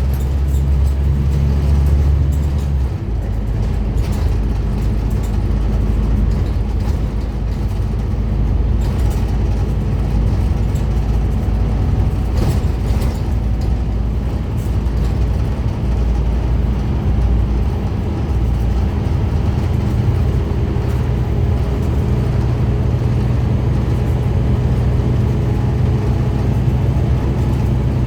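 Scania N230UD Omnicity double-decker bus running under way, a steady low engine drone. The deepest note drops away about three seconds in, and a lower hum grows stronger later on.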